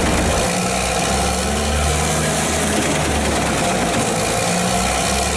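Pezzolato PTH 1200/660M drum wood chipper running steadily: a loud, even engine drone under a wide, constant hiss.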